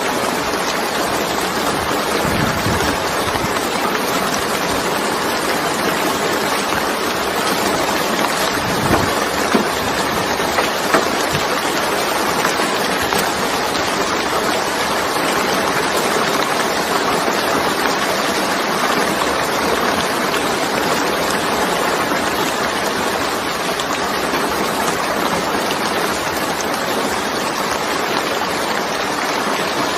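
Heavy rain falling steadily, a dense, even hiss, with a few brief louder taps about nine to eleven seconds in.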